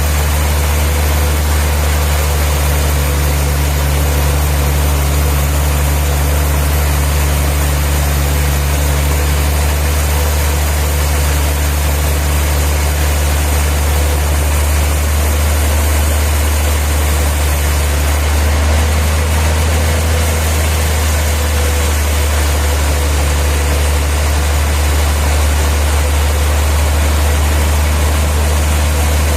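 Sawmill machinery engine running steadily at an even speed, a constant deep hum with a faint steady tone above it.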